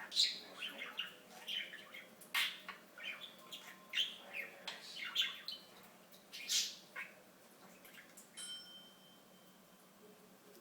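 Pet budgerigar chattering in quick, short chirps and squawks, going quieter for the last few seconds.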